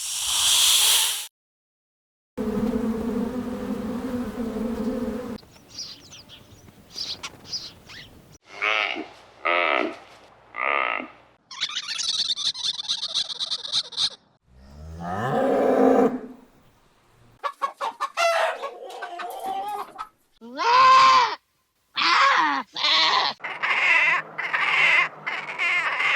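A string of different animal and bird calls, one after another, each starting and stopping abruptly with moments of silence between: a long steady call, several short repeated calls, a high buzzing stretch, a call that rises in pitch, and a quick run of calls near the end.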